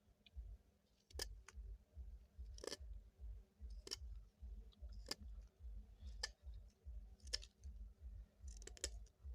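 Sharp clicks or snips, seven of them spaced about a second apart, over a faint low pulsing rumble.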